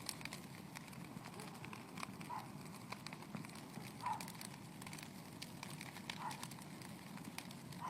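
Bonfire crackling, with irregular sharp pops and snaps over a steady low rush, and three short faint squeaks spread through it.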